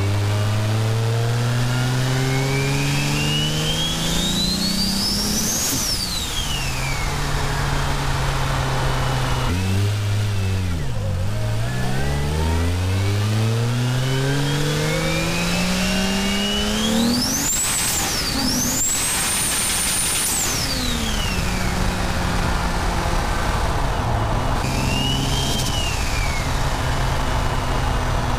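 Toyota Supra's single-turbo 2JZ straight-six, heard from a microphone in its engine bay, pulling through the gears. The engine note climbs under load with a turbo whistle rising high above it, then drops away at each gear change. It pulls hard twice, with the revs falling off between the pulls.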